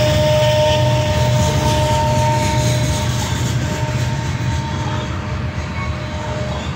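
Freight train of covered hopper cars rolling past, a steady rumble and clatter of steel wheels on the rails, easing slightly in loudness. A steady ringing tone runs under it and fades out near the end.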